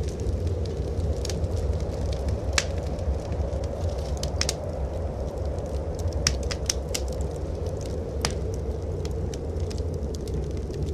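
Wood fire in a fireplace crackling, with sharp pops at irregular moments over a steady low rumble.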